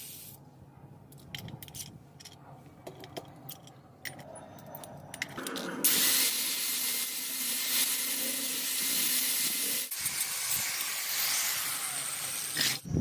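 Electric arc welding: a few sharp ticks at first, then from about halfway in a loud, steady sizzling hiss of the welding arc, broken off briefly once before it cuts off near the end.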